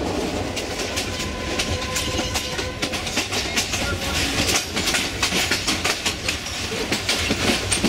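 Moving passenger train of the Yangon Circular Railway: old carriage rattling and wheels clattering over the rails in a dense run of clicks and knocks, with a faint high whine in the first few seconds.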